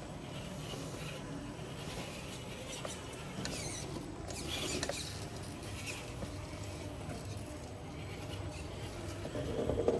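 Radio-controlled Traxxas TRX-4 rock crawler inching over rocks: its electric motor and drivetrain whining in small squeaky spurts, with tyres scrabbling on rock, busiest around the middle.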